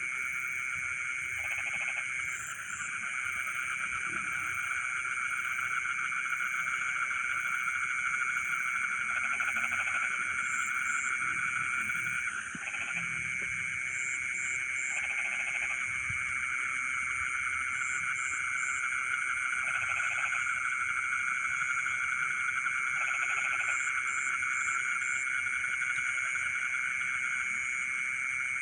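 A chorus of frogs and insects calling without pause, as a steady high trilling. A shorter, lower croak repeats every few seconds.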